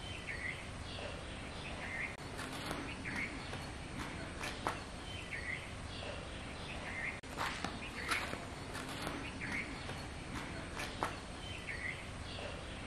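Outdoor ambience: a steady background hiss with small birds chirping in short repeated calls, and a few sharp clicks from time to time.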